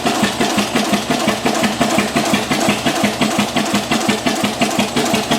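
Engine of a 1916 Avery 12-25 tractor, a two-cylinder opposed engine, running steadily at idle with an even, rapid beat of firing strokes. It is running on its first firing after rework of the engine.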